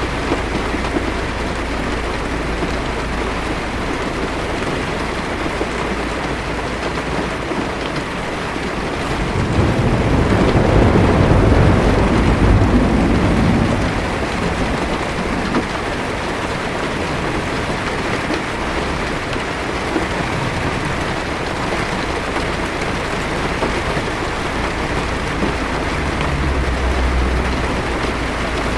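Heavy rain drumming steadily on a car's windshield and roof, heard from inside the car. About nine seconds in a roll of thunder swells up and rumbles for around five seconds, and a fainter rumble comes near the end.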